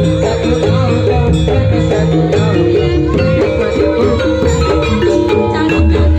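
Loud Javanese jaranan gamelan music: quick runs of mallet-struck metallophone notes over a heavy, booming low beat.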